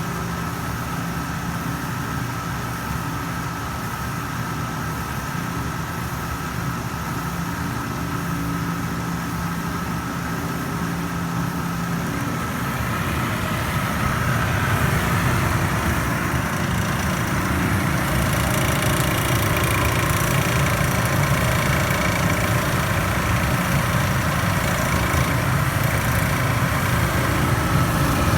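Panda PAN760SF 3.75 cu ft portable clothes dryer running with a grinding, chattering noise that grows louder about halfway through. The noise persists with a new fan belt and is cured by a replacement motor, so it comes from a faulty drive motor.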